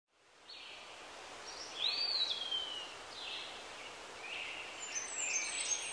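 Birds calling over a steady outdoor hiss, fading in at the start. The calls are short chirps and a swooping whistle about two seconds in.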